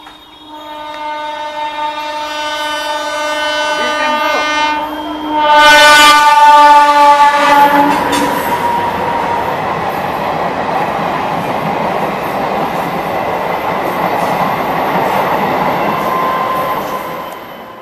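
Diesel-electric multiple unit (DEMU) train sounding its horn in one long, loud blast for about the first eight seconds as it approaches. The horn is loudest just before it stops. The coaches then roll past close by with a steady rumble of wheels on the rails, fading near the end.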